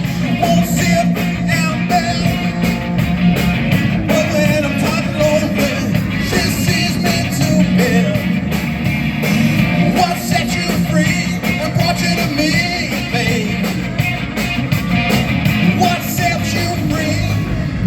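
Rock band playing live: a singer over loud drums and guitar.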